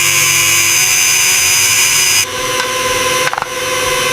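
A power tool running steadily with a high whine. About two seconds in its sound changes abruptly to a different steady tone, with a brief dip a little later.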